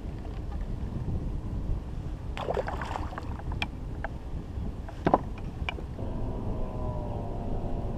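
Wind rumbling on the microphone aboard a kayak, with a few sharp knocks and clicks about two and a half seconds in and again, loudest, about five seconds in. A faint steady hum joins near the end.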